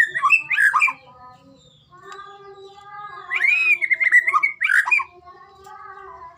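White-rumped shama (murai batu) singing: two loud bursts of quick, varied whistled phrases, one at the start and another about three seconds in, with fainter steady tones underneath.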